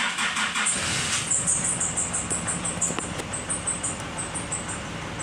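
Nissan Navara engine just after starting, running fast and uneven at first, then settling to a steady idle about four seconds in.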